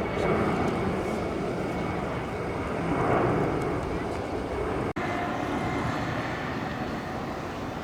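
Jet airliner engine noise: a steady rush with a faint whine that slowly eases off. The sound cuts out for an instant about five seconds in.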